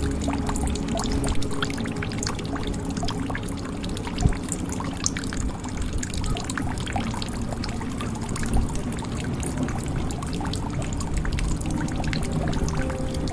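Water pouring and trickling into a jug, with many small drips and splashes. A few low steady tones run underneath.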